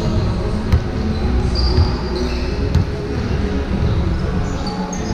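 Basketball bouncing on a gym floor during a game, several sharp thuds about a second apart over the hall's low rumble, with short high squeaks between them.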